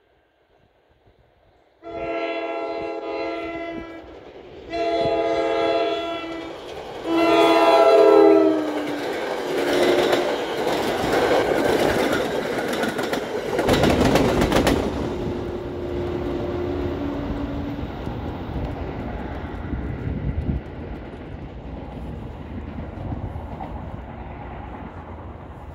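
NJ Transit passenger train sounding its multi-tone horn for a grade crossing: two long blasts and a shorter third. It then passes close by, the wheels clattering over the rail joints loudest as the coaches go through before easing to a steady rumble.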